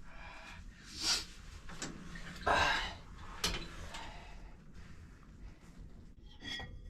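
A few short breathy sniffs and exhalations, with one light click about halfway through.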